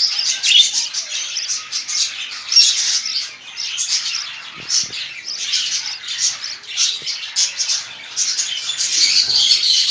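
Budgerigars chirping and chattering continuously, a dense stream of quick high-pitched chirps and squawks.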